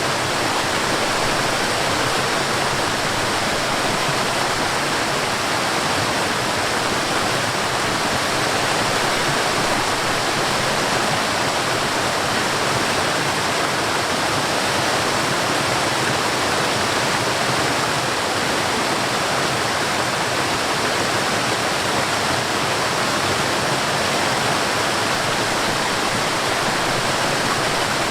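Mountain stream and small waterfall rushing in a steady, unbroken wash of water noise.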